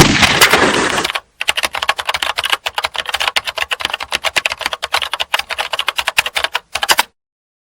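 A loud wash of noise for about the first second, then rapid keyboard-typing clicks, several a second, that cut off suddenly near the end.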